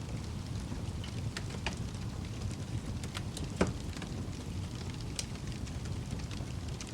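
Wood fire in a fireplace crackling, with a steady low rumble of the flames under scattered sharp pops, one louder pop about halfway through.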